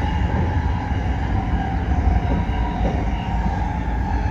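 Toyo Rapid Railway 2000 series electric train running at a steady speed: a steady low rumble of wheels on rail with a level whine over it.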